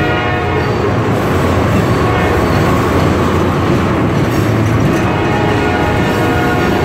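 Freight train tank cars rolling slowly past close by: a steady rumble of steel wheels on the rails, with a metallic ringing of several steady tones from the wheels that fades in the middle and comes back strongly near the end.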